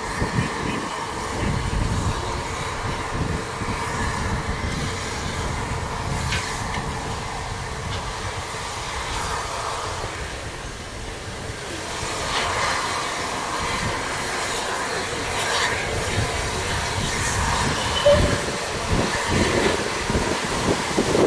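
Steam train running along the line, a steady rumble of wheels on rails that grows louder about halfway through, with a sharp knock near the end.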